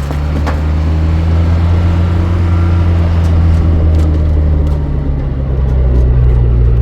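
Motor vehicle running steadily, a loud, even low engine drone with road noise.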